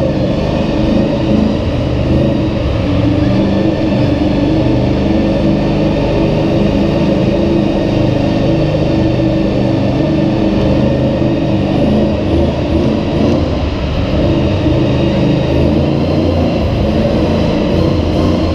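Monster truck engine running loud and steady nearby, its low pitch wavering up and down without a pause.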